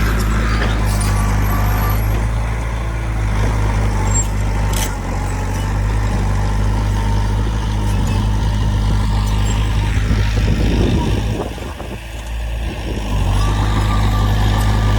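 Heavy diesel engine of earthmoving machinery running steadily, with a brief dip in level about eleven seconds in and a single sharp click about five seconds in.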